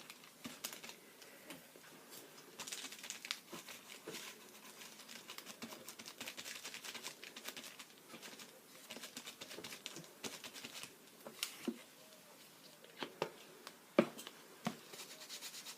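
Paper rustling and crinkling as paper cut-out shapes are handled and placed, with a few sharp light taps in the last few seconds.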